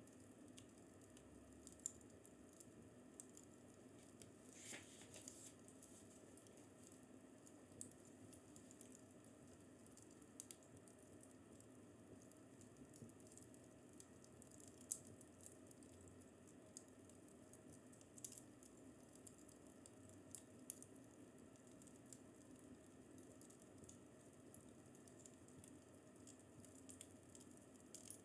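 Wood fire in a fireplace crackling faintly: irregular sharp pops and snaps over a low steady hiss.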